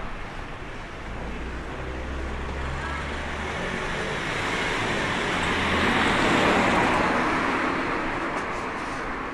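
Road traffic: a vehicle passes close by, its noise building to a peak about two-thirds of the way through and then fading, over a low engine hum.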